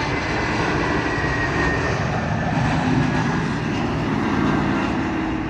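Jet airliner flying low overhead on landing approach: a steady loud engine rush, with a high whine that slowly falls in pitch.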